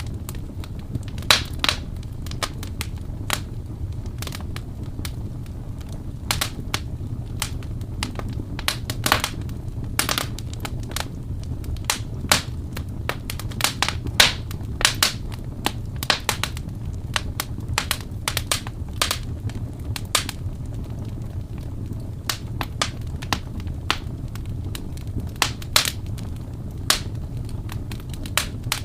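Wood fire crackling in a fireplace: irregular sharp pops and snaps, several a second and some louder than others, over a steady low rumble.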